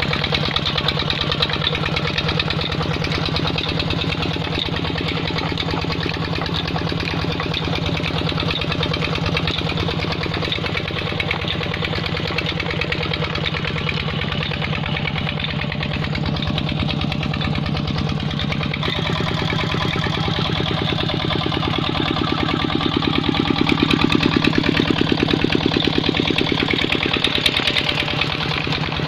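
Petter stationary diesel engine running steadily while driving a water pump. Its even firing beat carries throughout, and it grows louder for about five seconds near the end.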